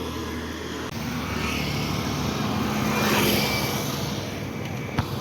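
Road vehicle noise: an engine running steadily, with a broad rush that grows louder to a peak about three seconds in and then fades, as of a vehicle passing close by.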